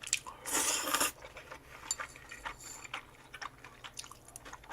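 A person slurping udon noodles in one short, loud rush about half a second in, then quiet chewing with small scattered clicks.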